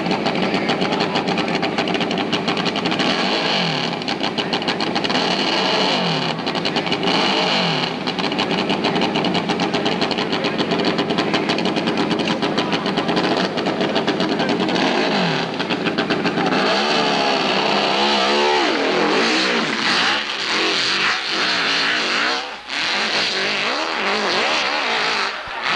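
Hillclimb racing motorcycle engine running hard and revving, its pitch rising and falling several times, with two brief drops in loudness near the end.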